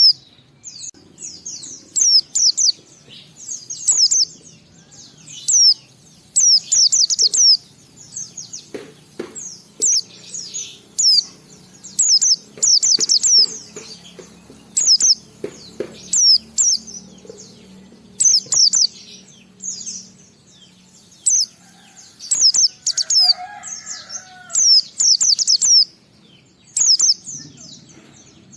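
Pleci (white-eye) songbird singing: clusters of quick, high, sweeping chirps, repeated every second or two with short pauses between.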